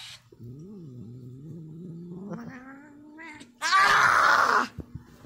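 Angry cat growling in a low, drawn-out yowl that slowly rises in pitch, then letting out a loud, harsh hissing screech about three and a half seconds in.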